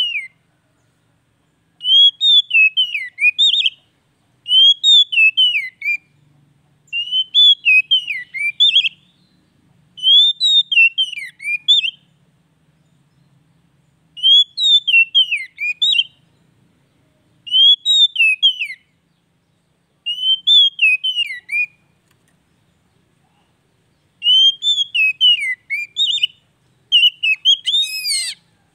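Oriental magpie-robin singing: about nine short phrases of clear whistled notes that swoop up and down, each lasting a second or two, with short pauses between them. It is a kacer bait song, played to spur a silent kacer into singing.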